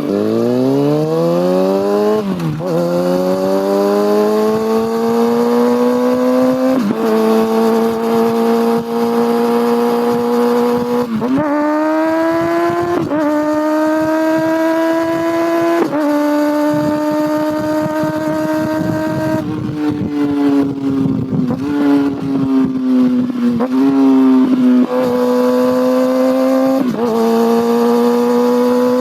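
Kawasaki ZX-6R's inline-four engine and exhaust on the move, accelerating through the gears: the pitch climbs, then drops sharply at each of several upshifts. About two-thirds in it eases off and the pitch falls, with a few short revs, then it pulls up again near the end.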